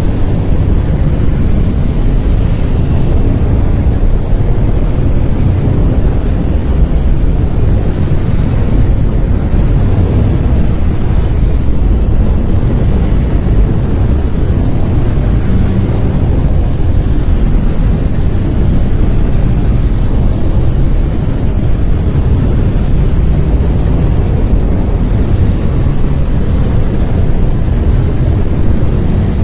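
Steady brown noise: an even, deep rumbling hiss with most of its energy in the low end.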